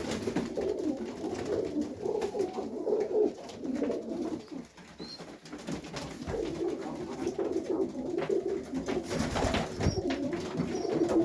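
Several domestic highflyer pigeons cooing in the loft, a continuous overlapping warble of low coos, with a brief noisy rustle near the end.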